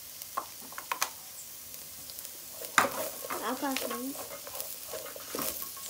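Diced onion and crumbled fried linguiça sausage sizzling in a metal pot, stirred with a wooden spoon that knocks against the pot several times. The loudest knock comes about three seconds in.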